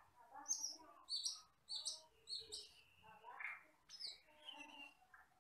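Camperling (Asian glossy starling) singing: a run of short, sharp high chirps about twice a second, mixed with lower warbling notes.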